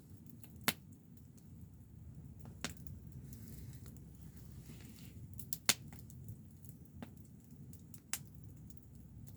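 Wood fire crackling: a handful of sharp, irregular pops over a low steady rumble.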